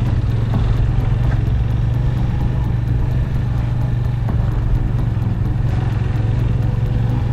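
Motorcycle engine running at a steady, unchanging pitch, with a few light knocks over it.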